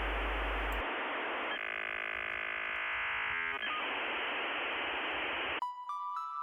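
Steady hiss-like noise, with a stretch of steady humming tones in the middle, and then background music starting near the end.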